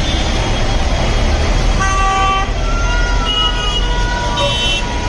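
Busy road traffic running steadily, with several short vehicle horn toots from about two seconds in and a tone that rises and falls briefly in between.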